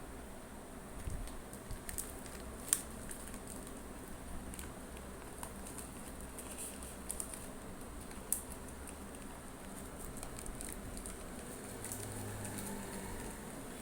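Pet parrot moving and pecking about, making light scattered clicks and scratches, with a sharper click about three seconds in and another about eight seconds in.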